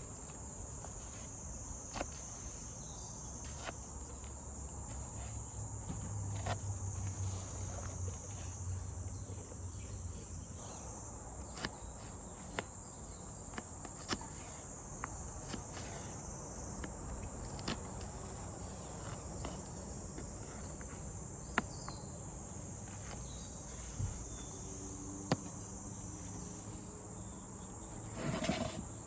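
A steady, high-pitched chorus of insects chirping, with scattered sharp clicks and pops throughout.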